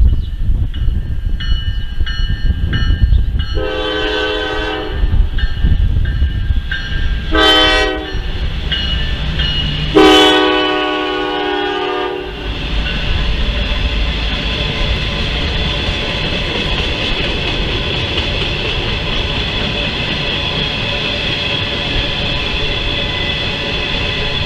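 Norfolk Southern freight locomotive's horn blowing a long, a short and a longer blast over the low rumble of the diesels, the standard signal for a grade crossing. After the last blast the train rolls by, with a steady rattle and rumble of wheels and empty flatcars on the rails.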